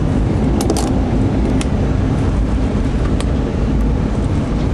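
Steady rumble of a moving Jeep, engine and road noise heard from inside the cabin, with a few light clicks or rattles.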